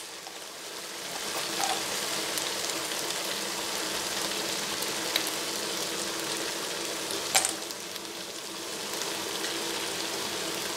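Sliced capsicum, spring onion and tomato sauce sizzling steadily in hot oil in a wide pan, with a single sharp click about seven seconds in.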